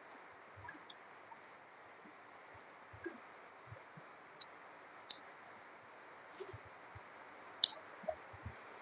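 Close-miked eating sounds: a person chewing, with scattered short, wet mouth clicks and smacks over a faint steady hiss.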